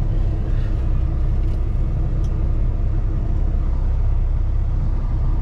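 Steady low rumble of a semi truck under way, heard from inside the cab: the diesel engine's drone and road noise, unchanging throughout.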